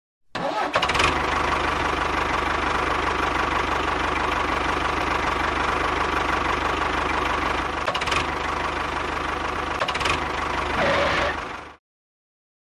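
An engine running steadily for about eleven seconds, swelling briefly near the end, then cutting off suddenly.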